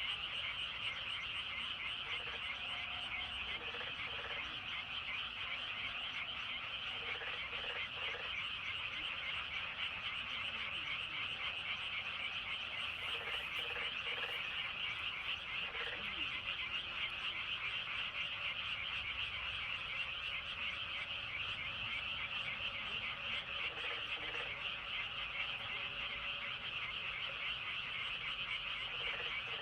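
Dense chorus of many frogs in a flooded rice paddy: a steady mass of fast, high trilling calls, with short lower croaks now and then in twos or threes.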